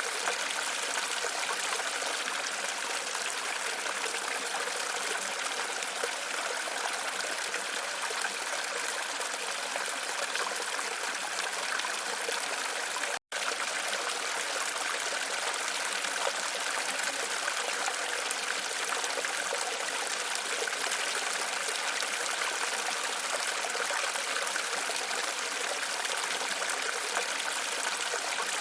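Waterfall water running in a steady, even rush with little low rumble. The sound cuts out for a split second about thirteen seconds in, then resumes unchanged.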